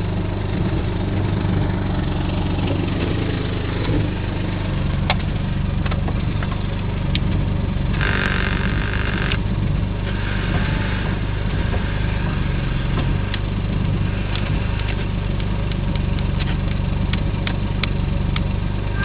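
Subaru XT6's 2.7-litre flat-six engine idling steadily, with scattered light clicks and a brief hiss about eight seconds in.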